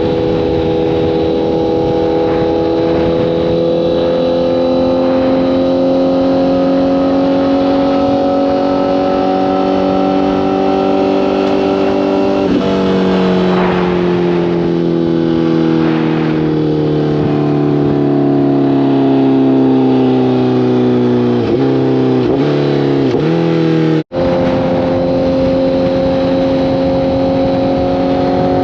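Honda CBR1000RR inline-four engine pulling under way. Its pitch climbs slowly, drops sharply at a gear change about halfway through, then falls slowly as the bike slows. Three quick downshifts follow near the end before the engine settles to a steady cruise. The sound cuts out for an instant a few seconds before the end.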